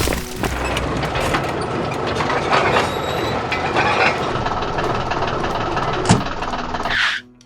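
Cartoon heavy-machinery sound effects: a steady engine rumble with scattered clanks and knocks, then a short rising whoosh near the end before the sound cuts off.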